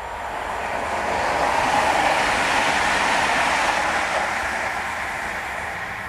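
Train passing by: a rushing noise of wheels on rails that swells over about two seconds, holds, then slowly fades.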